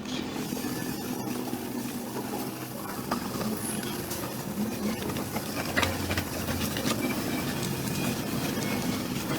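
Small motorcycle engine running steadily at idle, a low pitched hum with light ticking and clatter over it.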